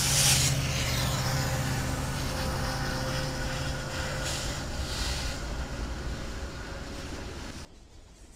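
BNSF diesel freight locomotives passing close by, their engines running with a low drone and a steady hum over loud rolling noise. Near the end the sound drops suddenly to a quieter freight train further off.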